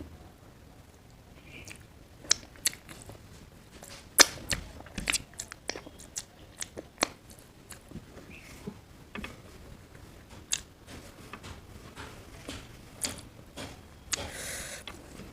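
Close-miked chewing of a person eating creamy paneer curry with roti: irregular wet mouth clicks and smacks, with a short breathy rustle near the end.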